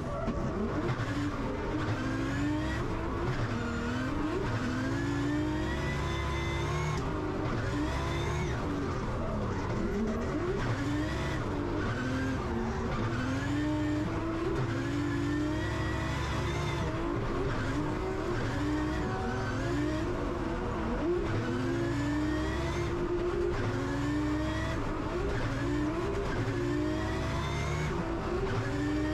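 Drift car engine heard from inside the cockpit, revving hard and repeatedly, its pitch climbing and dropping every second or two as the driver works the throttle through a drift run.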